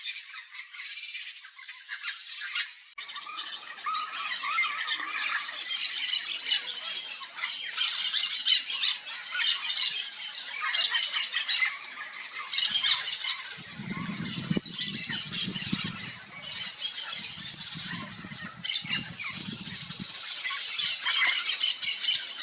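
Yellow-faced parrot calling in a continuous run of squawks and chattering notes.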